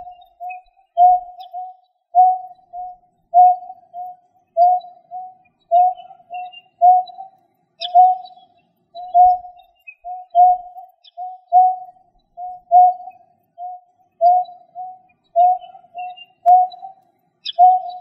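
A bird calling a long, monotonous series of short, low hooting notes, mostly in pairs, about two notes a second without a break. Faint high chirps sound now and then behind it.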